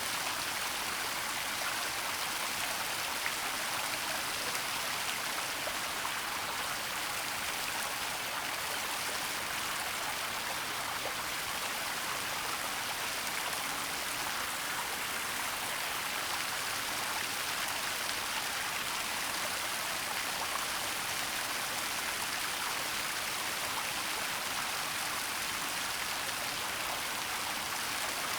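Waterfall and stream water falling and rushing in a steady, even hiss, with a few faint splashy ticks.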